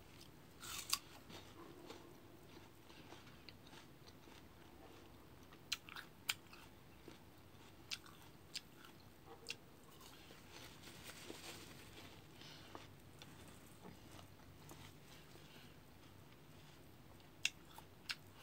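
A person quietly biting and chewing fresh fruit slices, with a few scattered short crunchy clicks over a faint steady background.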